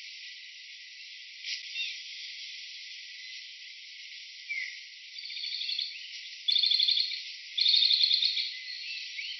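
Insects trilling: rapidly pulsing, high-pitched buzzing trills that come in loud bursts of about a second in the second half, over a steady hiss, with a few short high chirps scattered through.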